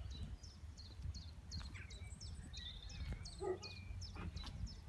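Wind rumbling on the microphone, with a bird calling over it in a steady series of short, high, falling chirps, about two to three a second.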